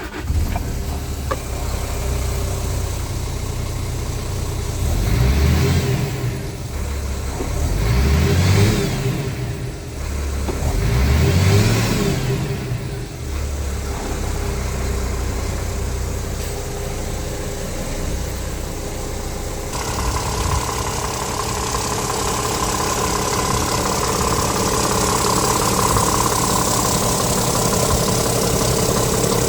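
Scania R tractor unit's diesel engine idling just after starting, revved briefly three times, about five, eight and eleven seconds in, each time falling back to idle. About twenty seconds in, a steady hiss joins the idle.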